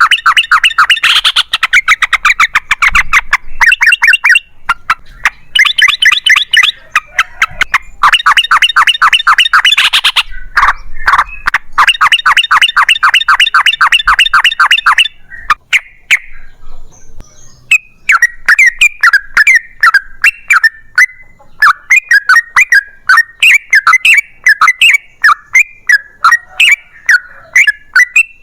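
Yellow-vented bulbul (trucukan) singing loudly. It gives long bursts of fast, chattering repeated notes, the 'ropel panjang' rattle, each lasting a few seconds. After a short pause past the middle it switches to a string of separate chirps, about two a second.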